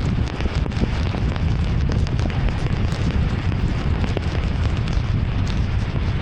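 Heavy rain pattering and hissing on a moving car, with many fine drop ticks over a steady low rumble of tyres and wind on a wet road.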